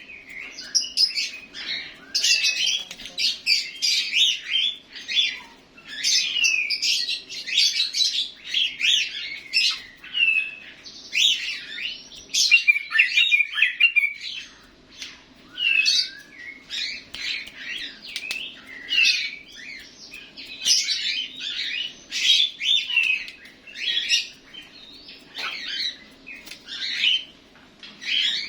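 Yellow-vented bulbul (trucukan) singing almost nonstop: rapid, bubbly runs of chirps and short whistled notes with only brief pauses between phrases, over a faint steady hum.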